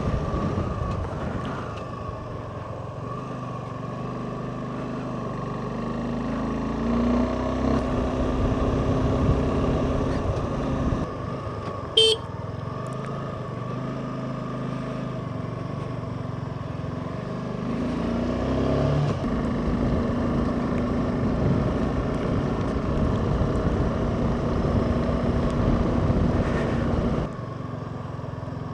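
Suzuki V-Strom SX 250's single-cylinder engine running under way, heard through a helmet mic with wind noise. The engine pitch rises twice as it picks up speed, and it eases off near the end. A brief sharp tone sounds about twelve seconds in.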